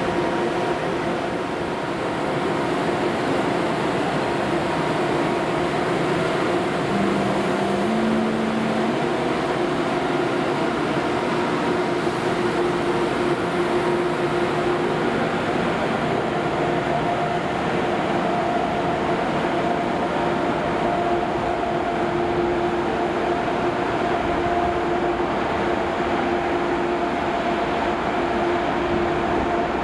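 Electric train at a station platform, a steady hum with several held whining tones, its level even throughout.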